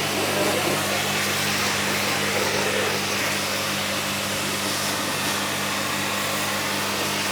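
Electric high-pressure car washer running steadily: a constant motor hum under the even hiss of its water jet.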